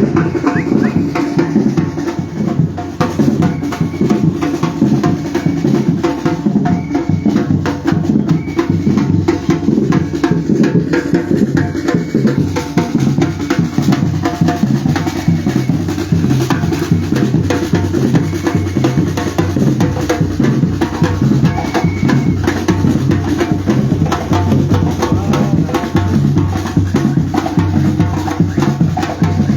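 Batucada percussion group drumming a steady, driving rhythm: bass drums with snare and a woodblock-like tapping on top.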